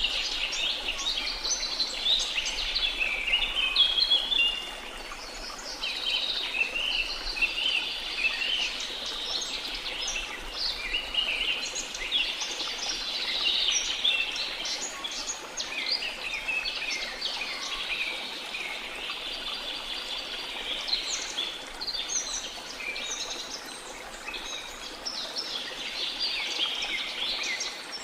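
Many birds chirping and singing at once in a rainforest chorus of quick, overlapping calls, over a faint steady rush of waterfall water.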